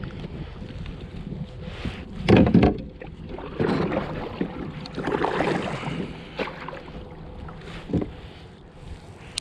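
Noises from a fishing kayak on the water: irregular bursts of rustling and knocking, the loudest about two and a half seconds in, and a sharp knock near the end, over wind on the microphone.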